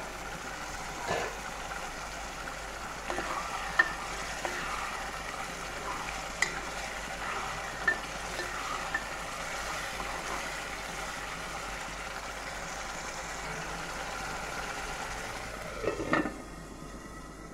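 Chopped garlic and spice masala sizzling in hot oil in a non-stick pan as a spatula stirs it. A few sharp knocks on the pan break the steady frying sound, with a brief clatter near the end.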